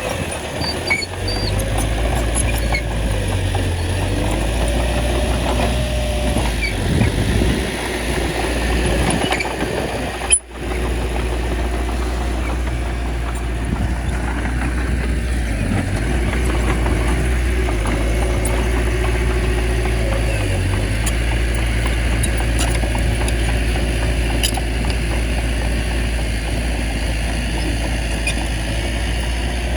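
Small bulldozer's diesel engine running steadily at a low, even hum, with a momentary break about ten seconds in.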